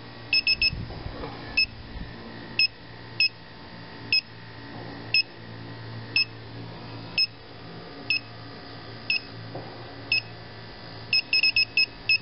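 Inficon TekMate electronic refrigerant leak detector beeping at a slow, even rate of about once a second. A quick run of beeps comes just after the start and again near the end: a small trace of R-22, which the technician puts down to refrigerant he released when connecting his gauge hoses, not to a serious leak. A low steady hum runs beneath.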